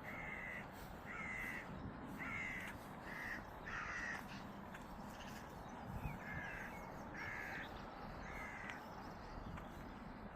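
A crow cawing over and over, a run of short harsh caws a little under one a second, stopping shortly before the end.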